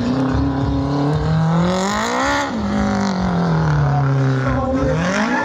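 Smart ForTwo stunt car's small engine revving. The pitch climbs for about a second to a peak near the middle, sinks slowly for a couple of seconds, then starts climbing again near the end.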